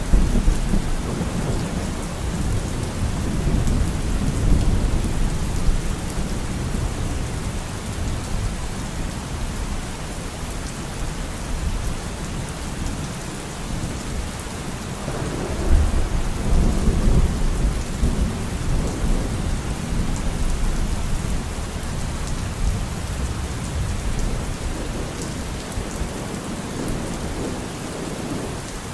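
Steady rain falling, with thunder rumbling low under it: one roll fading out over the first few seconds and another building about halfway through, then dying away slowly.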